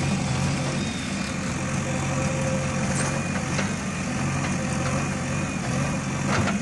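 Heavy diesel engine running steadily, with a short knock about three and a half seconds in and another near the end.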